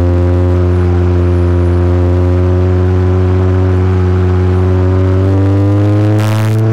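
Honda CR-Z Mugen RZ's engine and exhaust pulling in gear, the note rising slowly and steadily as the car accelerates. A brief burst of hiss comes near the end.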